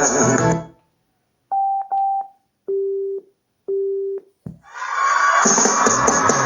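Music from a Sombox D-X002 portable speaker stops. The speaker then sounds electronic prompt tones: two short higher beeps, then two longer lower beeps, and a click, before music starts again about five seconds in.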